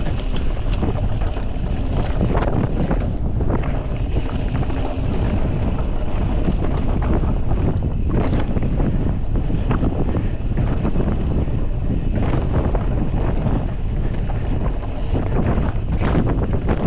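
Wind rushing over the microphone of a mountain bike rider's camera on a fast descent, with tyre noise on the dirt trail and irregular knocks and rattles from the bike over rough ground.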